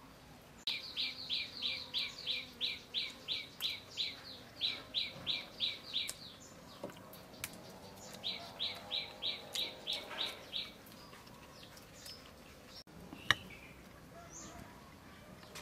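A bird calling in fast runs of short, repeated, downward-sliding chirps, about four a second. One run lasts about five seconds and a shorter one follows after a pause. Near the end there is a single sharp click.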